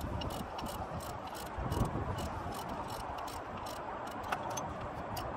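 Ratchet wrench clicking in a quick run of small ticks, about three to four a second, with a dull knock a little under two seconds in.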